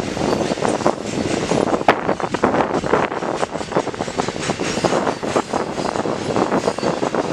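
A train rolling past on the rails, its wheels giving a steady clatter with many sharp knocks and clanks.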